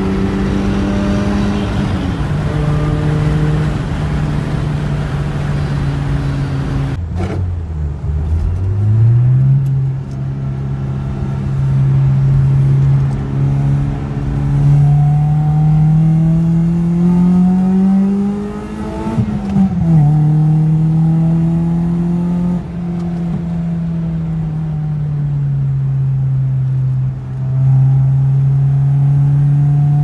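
BMW M42 1.8-litre four-cylinder engine heard from inside the car under hard driving, the revs rising and falling through gear changes and corners. The pitch steps down about two seconds in, dips low and climbs back again around eight seconds in, then rises steadily to a peak just before the middle and falls away.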